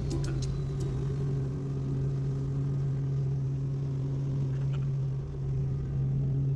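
Helicopter running in flight: a steady mechanical drone with a constant low hum.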